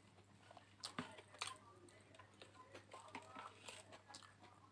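Faint chewing with the mouth closed, with a few soft clicks and small noises as fingers tear food off a plate.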